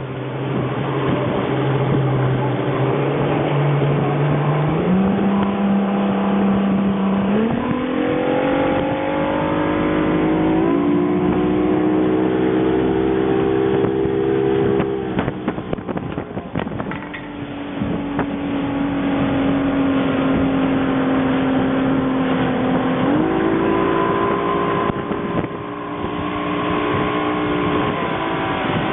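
Motorboat engine running under way, its pitch rising in stages over the first ten seconds as it speeds up. It drops back about halfway through and climbs again near the end.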